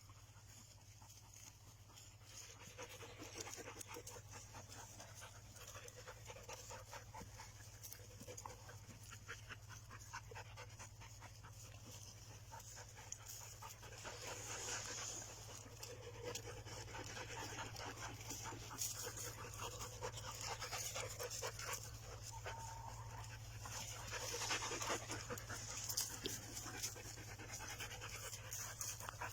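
A dog panting rapidly and steadily, growing somewhat louder over the stretch.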